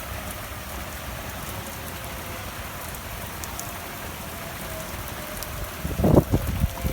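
Steady rain with a civil-defense tornado siren wailing faintly, its pitch slowly falling. About six seconds in come a few loud, low thumps.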